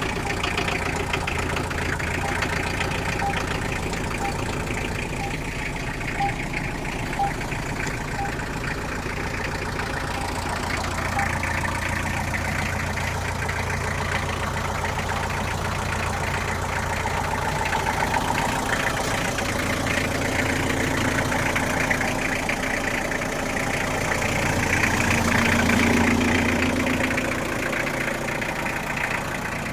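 Toyota Blizzard engine idling steadily just after being started, with a faint regular tick about once a second through the first ten seconds. It gets briefly louder about 25 seconds in.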